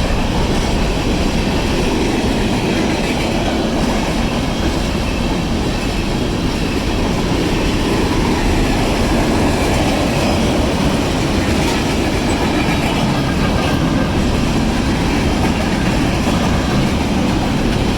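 Freight cars of a Union Pacific manifest train rolling past close by: a loud, steady noise of steel wheels on rail.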